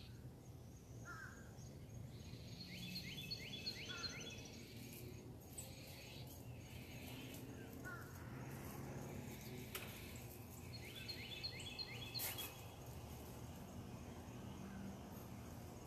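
Outdoor birds calling over a steady low background hum. Twice a bird gives a quick run of about four short, high, falling chirps, with a few single lower calls in between.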